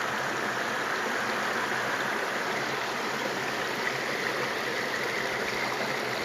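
Creek water pouring over a small waterfall: a steady rushing and splashing.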